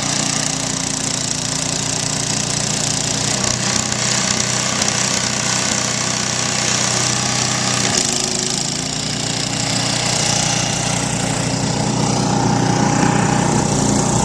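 Petrol snowblower engine running steadily under load as it clears deep snow, with a steady hum and a broad hiss over it.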